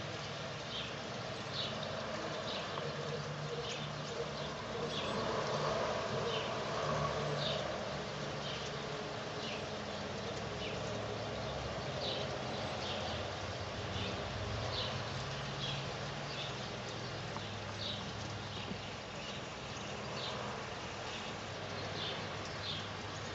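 Steady autumn rain, with short high ticks of drops landing about once a second. The rain swells for a few seconds near the start.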